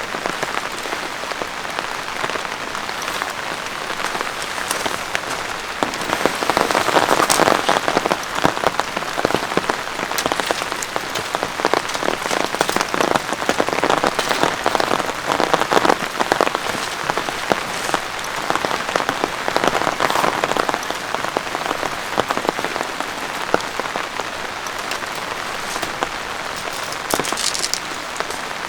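Steady rain falling without a break, with many separate drop hits close by; it grows a little heavier several seconds in.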